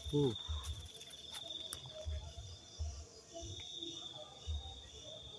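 Crickets trilling steadily in a high continuous chirr that breaks off briefly a little past the middle, with irregular low thuds of footsteps underneath.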